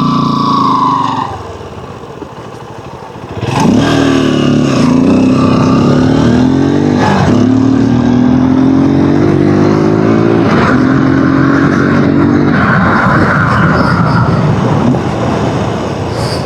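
Single-cylinder Honda dirt bike engine pulling away. It drops back to a quieter note for a couple of seconds, then accelerates hard about three and a half seconds in, its pitch climbing and breaking through several gear changes before it eases off near the end.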